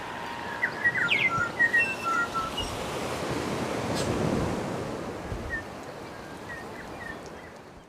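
Sea surf washing steadily, with small birds chirping several times, mostly in the first few seconds; the sound fades out near the end.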